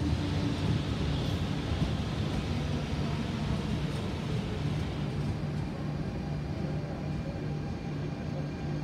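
Copenhagen S-train, an electric multiple unit, running on the line at the station: a steady rumble with a low electrical hum and faint higher whine.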